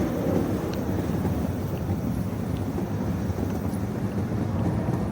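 Wind rumbling and buffeting on the microphone outdoors: a steady low, fluttering noise.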